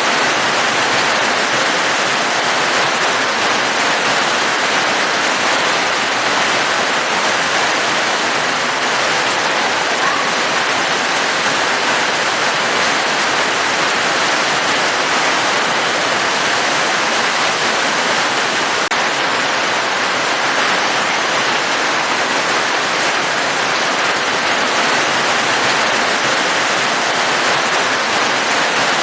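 Steady, dense rain falling, an even hiss with no single drops standing out and no change in strength.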